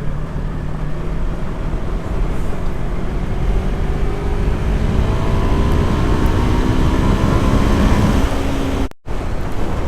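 Yamaha R3 motorcycle's parallel-twin engine accelerating, its pitch climbing steadily for several seconds under heavy wind and road rumble. The sound drops out abruptly for a moment near the end.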